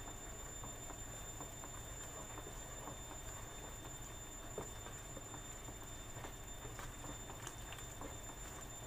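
Ground chili paste frying in oil in a metal wok: a steady low sizzle and bubbling, with scattered light clicks and scrapes as a spatula stirs it against the pan.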